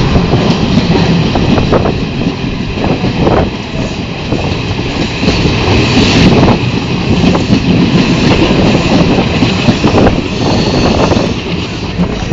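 Moving train heard from the open door of a carriage: loud, continuous running noise of wheels on rails, with a few irregular knocks from the rail joints.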